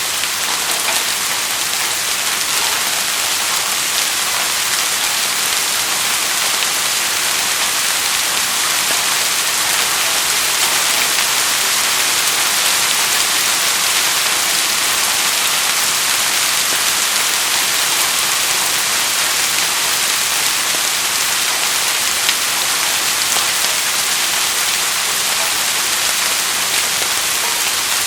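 Steady rainfall pattering on surfaces, a continuous even hiss with faint scattered drop ticks.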